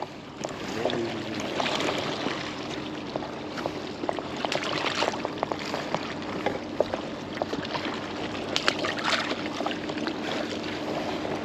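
Water sloshing and splashing around a small foam boat, with many scattered knocks and a faint steady hum underneath.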